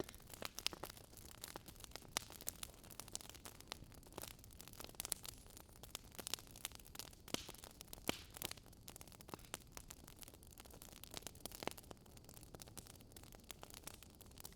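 Wood fire crackling: a faint hiss with frequent irregular sharp pops and snaps.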